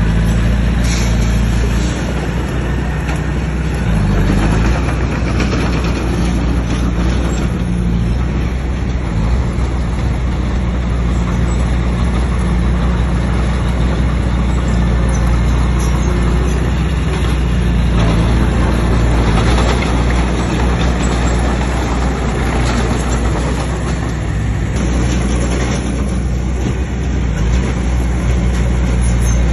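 Bulldozer's diesel engine running steadily under load, a low, even engine note with a rough rattling noise over it.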